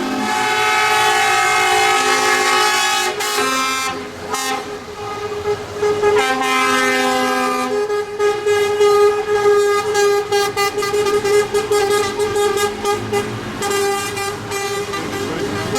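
Several vehicle horns sounding together at different pitches as a convoy passes, some notes held for a second or two and others overlapping. In the second half there are many short, quick toots.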